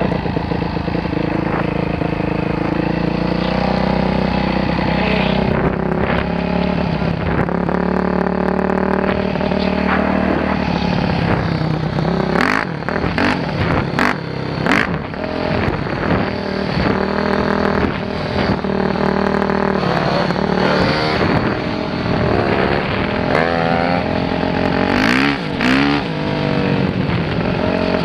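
Dirt bike engine running and revving, its pitch rising and falling again and again as the throttle opens and closes. Several sharp knocks come through about halfway and again near the end, amid quick rises and drops in revs.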